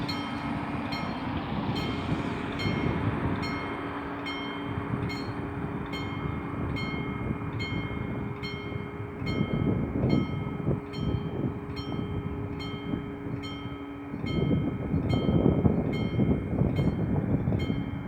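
Level-crossing warning bell ringing in quick, even strikes, about two a second. Under it is the low rumble of a train, which swells loudly about two thirds of the way in.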